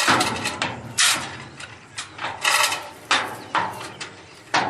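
A string of sharp knocks and clanks, metal and wood struck, about one or two a second, some ringing briefly.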